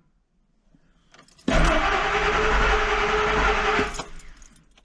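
Ford Expedition V8 being cranked by its starter for about two and a half seconds without catching, stopping abruptly. A crank-no-start that the owner puts down to a dead fuel pump giving no fuel pressure.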